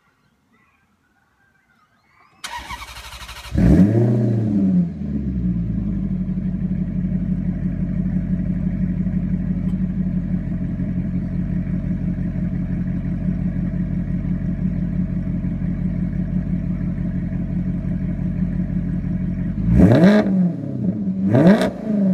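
Maserati 4.2-litre V8 with a GTS exhaust starting: about a second of starter cranking, then it catches with a rev flare and settles into a steady idle. Near the end it is blipped twice, quick revs that rise and fall.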